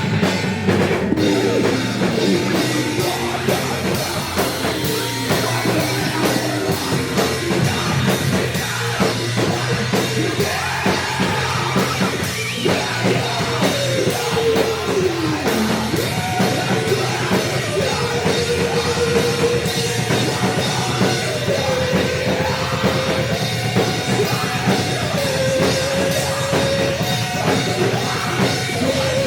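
Noise-rock band playing loud, with a drum kit pounding steadily under a dense wall of distorted sound. A melodic line slides downward about halfway through, then settles into long held notes.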